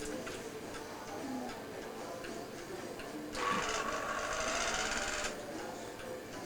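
A small motor whirring for about two seconds, starting about three seconds in, with quieter household sounds around it.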